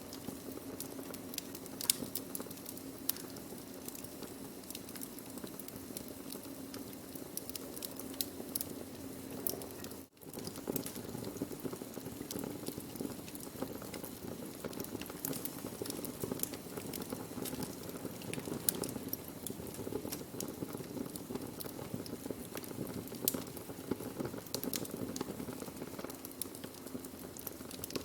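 Burning wood crackling: a steady low hiss with frequent sharp pops and snaps, dropping out for an instant about ten seconds in.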